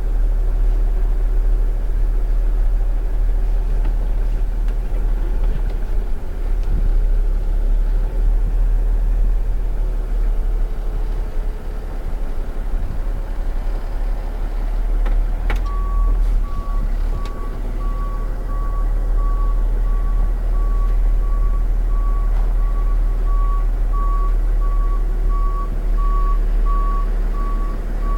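Box truck engine running with a steady low rumble; about halfway through, a reversing alarm starts up with evenly spaced beeps at one pitch, growing a little louder toward the end.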